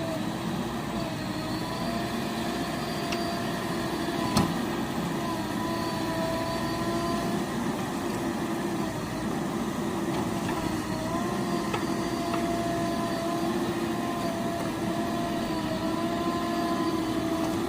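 Diesel engine of a heavy vehicle running steadily with a high whine over the rumble. A single sharp knock about four seconds in.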